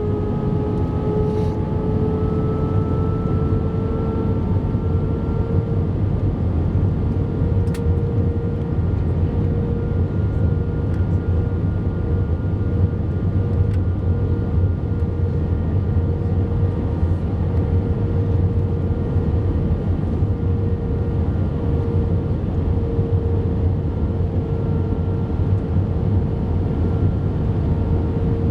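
Airbus A320's jet engines running during the approach to landing: a steady deep rumble with a whine that rises slightly in pitch over the first few seconds, then holds steady.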